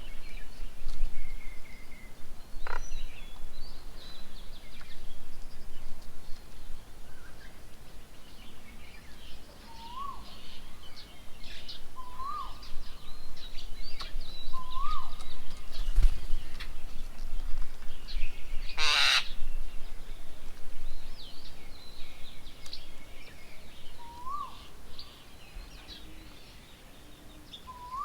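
Several birds calling at a bird table: many short high chirps, a short rising whistled note repeated about five times a few seconds apart, and one loud harsh screech about two-thirds of the way through.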